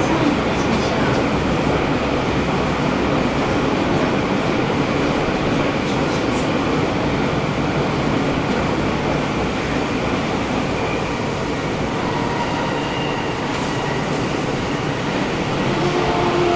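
Sendai City Subway Namboku Line 1000N series train running through the tunnel, heard from inside the car: a steady rumble of wheels and running gear with the air conditioning on. Faint whining motor tones come in near the end.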